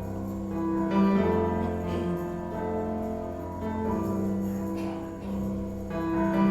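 Instrumental worship band music with no singing: sustained chords held and changing every second or two.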